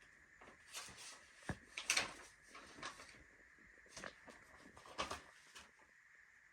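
Light handling noises: a scattered series of small clicks and knocks with brief rustles, over a faint steady high-pitched whine.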